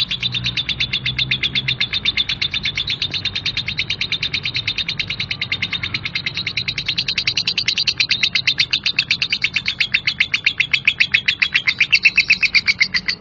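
Lovebird giving a long, unbroken harsh 'ngekek' chatter: rapid, evenly repeated shrill notes that grow louder in the second half.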